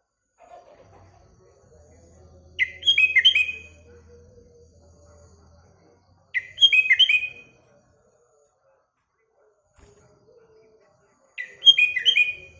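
Sooty-headed bulbul (kutilang) singing three short phrases a few seconds apart, each a quick run of bubbly, falling notes lasting about a second.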